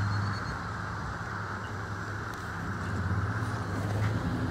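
Car engines idling in a queue of traffic: a steady low engine hum with an even rushing noise over it.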